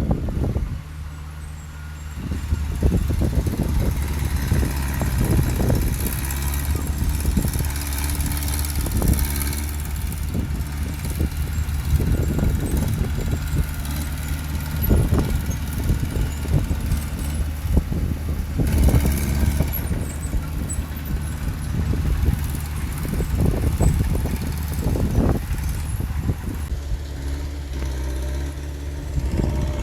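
Heavy diesel engine of earthmoving machinery running steadily under load, with frequent knocks and clanks, and a brief hiss about two-thirds of the way through.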